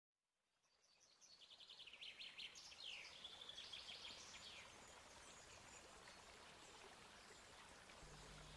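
Faint birdsong fading in: several quick trills and chirps from small birds, busiest in the first few seconds and thinning out after, over a steady low hiss of outdoor background.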